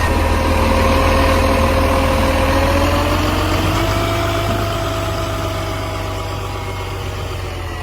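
Garbage truck engine running steadily with a whine over it that rises slightly in pitch about three to four seconds in, then gradually grows quieter.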